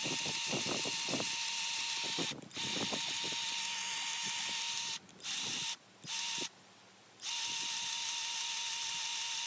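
Battery-powered grease gun motor whining at a steady pitch in five runs, two long and three short, as it pumps grease into a machine's grease fittings.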